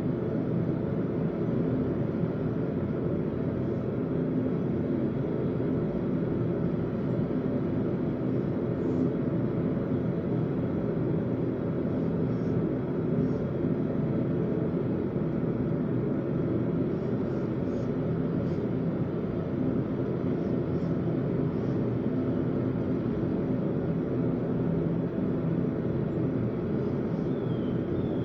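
A blacksmith's forge running with a steady, even roar, with no hammer strikes.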